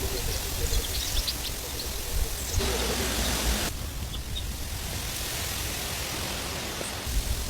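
Steady hiss of heavy rain with a low rumble underneath; its tone changes abruptly twice, a few seconds in.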